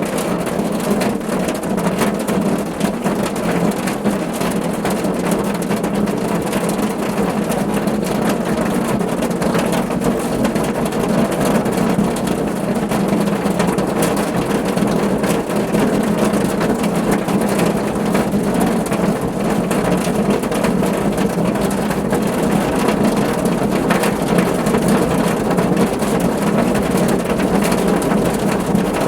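Rain falling steadily on a car roof: a dense patter of drop hits over a steady low rush.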